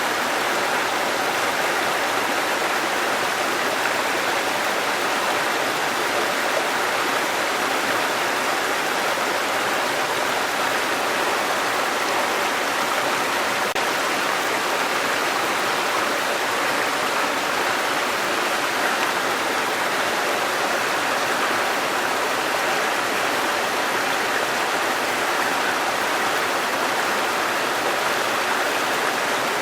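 Waterfall: water falling and rushing steadily, without any change.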